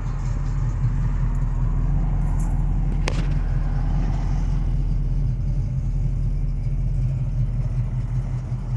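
Pontiac 455 V8 in a modified 1972 Pontiac Ventura II running steadily with a deep, even low rumble, likely at idle. A single sharp click sounds about three seconds in.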